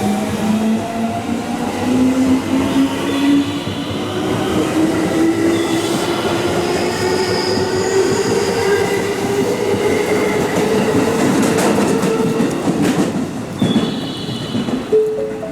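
Electric train's traction motors whining as it accelerates, the pitch of the whine climbing steadily, over the rumble of wheels on rails. A few sharp clicks come late on.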